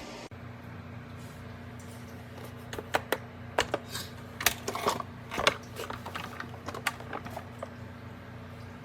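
Robot vacuum running with a steady low hum. Through the middle stretch comes a run of irregular sharp clicks and rattles.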